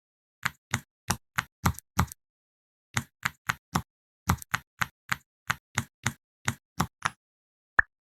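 Knocking: about twenty short, sharp knocks in quick groups, about three a second, with short pauses between the groups. A single sharp click comes near the end.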